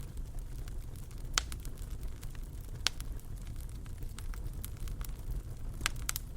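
Wood fire in a fireplace burning with a low steady rumble and scattered crackles, with sharp pops about a second and a half in, near three seconds, and twice close together near the end.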